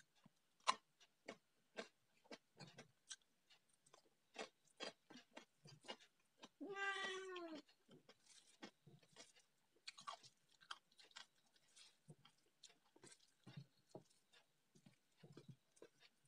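Quiet eating sounds of rice and curry eaten by hand: wet chewing and lip-smacking clicks throughout. About seven seconds in, a cat meows once, a call of about a second that falls in pitch at the end.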